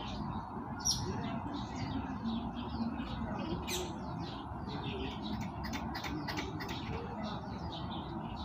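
Several birds chirping and calling in the tree canopy, many short overlapping chirps, with a sharper, louder call about a second in and another near four seconds. A steady low background noise runs underneath.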